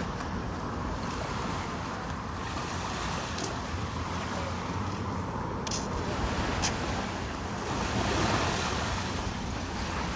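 Ocean surf washing in, with wind rumbling on the microphone; the surf swells louder about eight seconds in.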